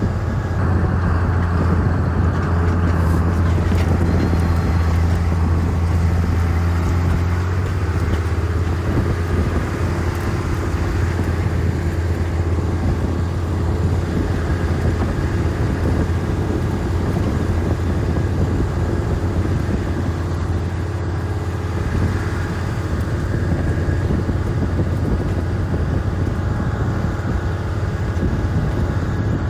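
Large vehicle engine running steadily under a continuous low hum, with a slight change in its tone about a quarter of the way in.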